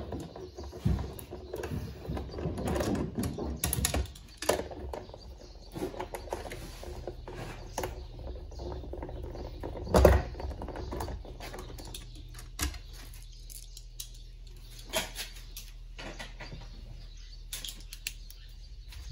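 Irregular clicks, taps and knocks, as of small hard objects being handled, with one loud knock about ten seconds in, over a steady low hum.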